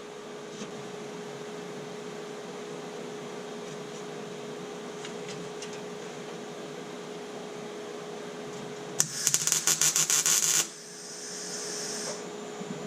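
Aerosol spray-paint can shaken briefly, its mixing ball clicking rapidly, then sprayed with a hiss of about a second and a half. A steady low hum runs underneath.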